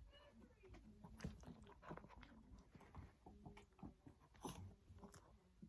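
A dog chewing and crunching small food treats: faint, irregular crunches and clicks.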